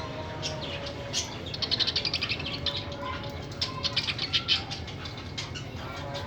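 Pet parrot chattering in two bursts of rapid, high-pitched pulses, the first about a second and a half in and the second near the middle.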